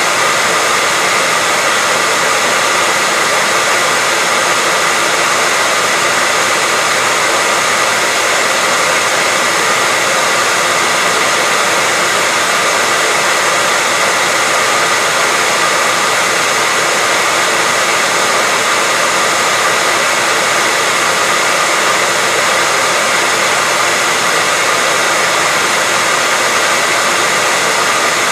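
Hair dryer running steadily: an unchanging rush of blown air with a faint steady whine from the fan motor.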